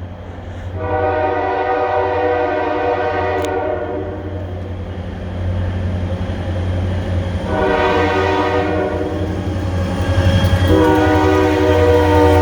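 Approaching train's locomotive air horn sounding three blasts: a long one, a shorter one, and a third, louder one still sounding at the end. A steady low engine rumble grows louder beneath it as the train nears.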